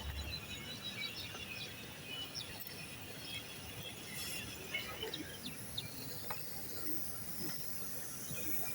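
Outdoor morning ambience of birds chirping in scattered short calls over a steady high-pitched insect buzz.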